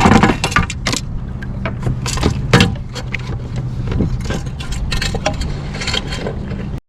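Rapid clicks, clatters and knocks of gear being handled on a kayak while a fish is laid out to be photographed, over a steady low hum. The sound cuts off abruptly near the end.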